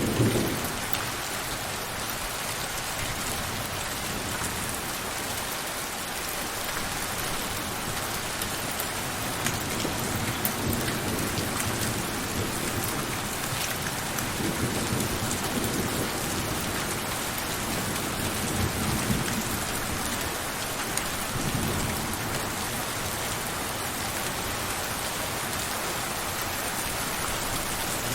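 Steady rain pouring, with low rumbles of distant thunder that swell and fade several times in the middle.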